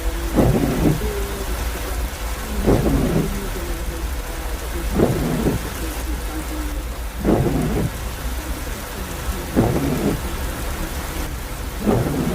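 Heavy rain on a moving car, with the windscreen wipers sweeping six times at an even pace of about one stroke every two and a bit seconds, over a steady low rumble of the car on a wet road.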